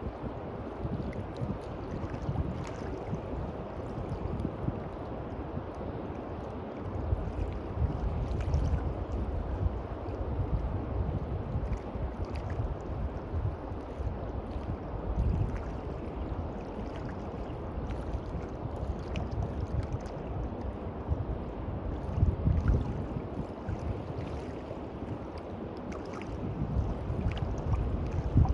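Sea waves washing onto a beach, rising and falling in surges, with wind buffeting the microphone as a low rumble.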